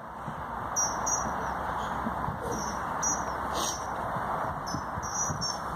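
Small songbirds chirping in short, high, repeated notes over a steady background noise.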